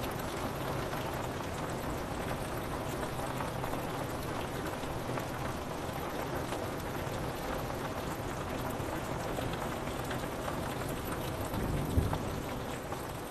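Steady rain falling on a window, an even hiss of drops with no pauses. Near the end there is one short, low thump, the loudest moment.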